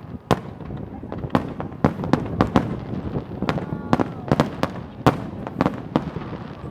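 Aerial fireworks bursting in a rapid, irregular barrage: about fifteen sharp bangs in under seven seconds, some close together, over a continuous rumble of the display.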